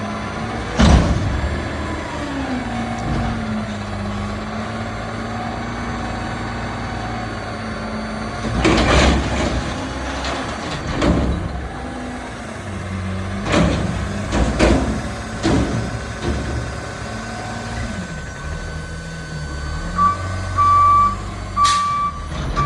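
Garbage truck engine running with a steady drone that shifts in pitch, broken by several loud sudden noises, most of them between about 9 and 16 seconds in. Near the end a reversing alarm starts beeping at a steady rate.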